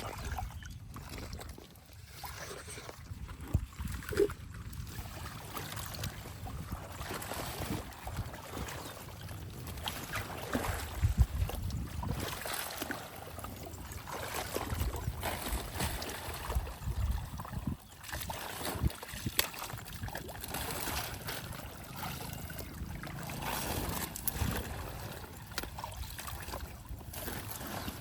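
Shallow water sloshing and splashing, with a few sharp knocks.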